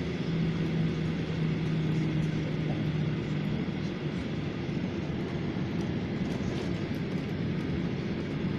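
Jet airliner engines and rushing air heard inside the cabin during takeoff: a steady, dense rumble. A low hum in it fades out about three seconds in.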